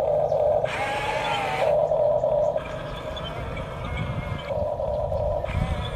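A radio-controlled toy excavator's electric motors whining, the pitch changing every second or so as one movement stops and another starts.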